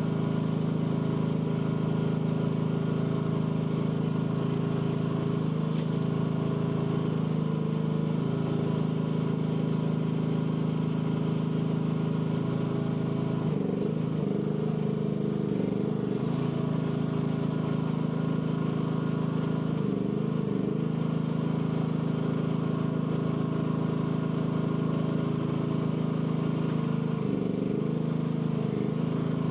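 AGT L12 mini excavator's engine running steadily, its note dipping briefly several times as the hydraulics are worked and take load.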